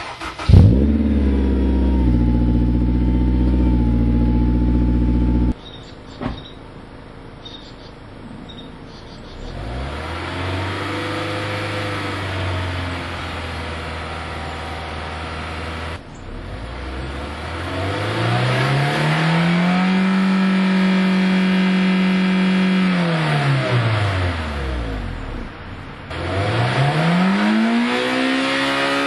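Honda S2000 four-cylinder engine and exhaust. It fires with a loud burst and settles into a steady idle for about five seconds. After a short quiet stretch it is held at a raised, steady speed, then revved up, held high for a few seconds and let fall back. Near the end it is revved once more, rising and falling.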